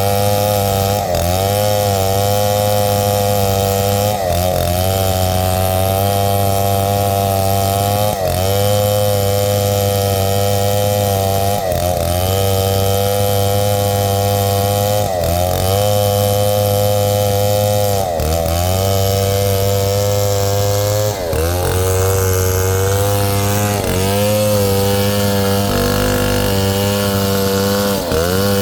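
Large two-stroke '707' chainsaw running at high revs as it rips through a log. Every three to four seconds its pitch dips briefly under load and climbs back, and it wavers more near the end.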